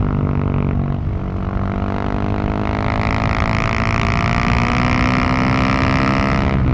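Husqvarna 701 supermoto's single-cylinder engine and exhaust under way. The engine note dips about a second in, then climbs steadily as the bike accelerates, and drops abruptly near the end as the revs fall off.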